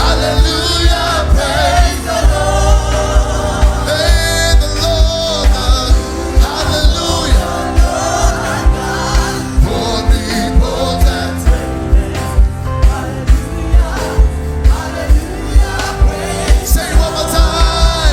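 Live gospel worship music: voices singing together over keyboard chords and a pounding bass drum beat.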